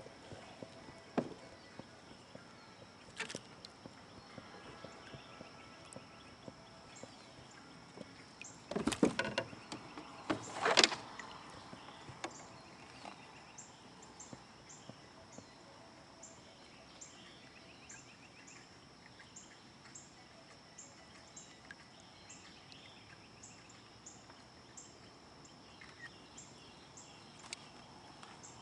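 Quiet open-water ambience aboard a fishing kayak, broken by a few knocks of gear against the hull, the two loudest about nine and eleven seconds in. Faint regular high ticks run through the second half.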